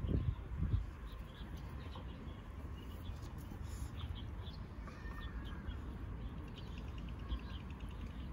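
Small birds chirping now and then, short high calls, over a steady low rumble that is louder in the first second.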